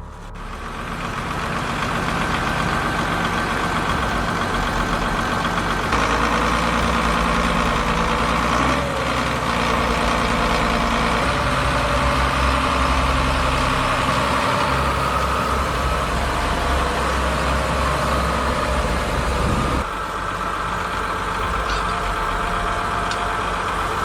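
Tractor engine running steadily under load, growing louder and heavier about six seconds in and easing off shortly before the end.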